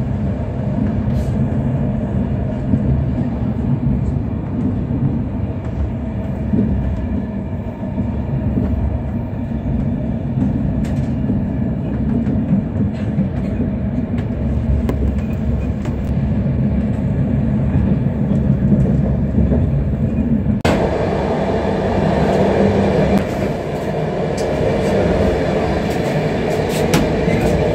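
Passenger train running along the line, heard from inside the carriage: a steady low rumble of the wheels on the rails. About twenty seconds in the sound suddenly becomes brighter and harsher, with scattered clicks and knocks.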